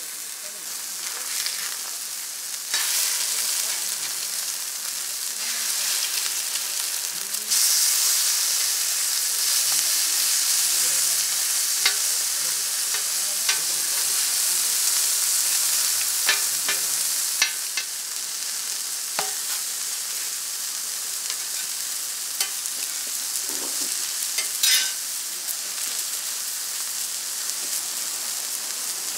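Burger patties and eggs sizzling on a flat griddle, the frying hiss swelling louder about three and again about seven seconds in and easing back after the middle. Occasional sharp clicks and scrapes of a metal spatula on the griddle.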